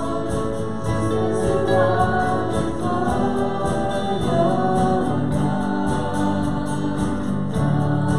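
Church congregation singing a hymn together, with steady rhythmic instrumental accompaniment.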